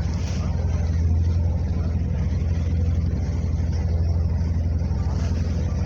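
Boat's engine running steadily, a constant low hum.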